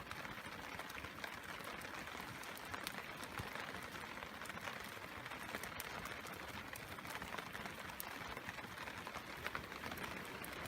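Steady rain falling on a plastic tarp, with many scattered sharp ticks throughout.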